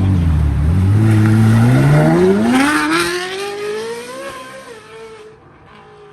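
A supercar accelerating hard at full throttle. The loud engine note climbs steadily in pitch for about three seconds, then fades as the car pulls away.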